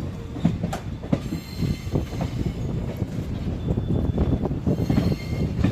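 Indian Railways passenger express train running on the rails: a steady low rumble with frequent irregular knocks and clanks from the wheels and couplings.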